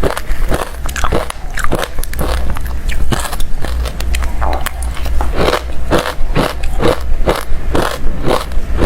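Refrozen crushed ice being bitten and chewed close to the microphone: hard, crunchy bites several times a second, packed irregularly.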